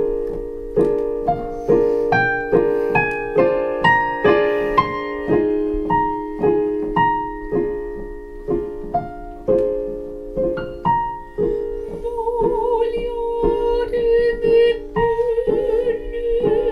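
Piano playing repeated chords about twice a second under a slow melody, as an aria's introduction; about twelve seconds in, a soprano voice with a wide vibrato enters and grows stronger toward the end.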